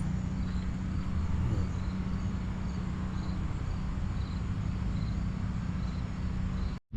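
Steady low outdoor rumble with a faint high chirp repeating a little more than once a second; the sound drops out abruptly near the end.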